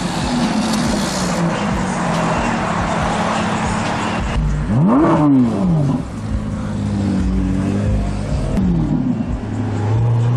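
Modified car engines running as cars drive past, with one sharp rev about halfway through, the pitch shooting up and falling straight back, and a shorter rev near the end.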